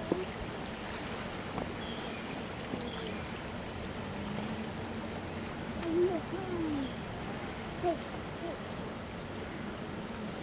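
Steady high insect trill over an even rush of floodwater, with faint distant voices about six and eight seconds in.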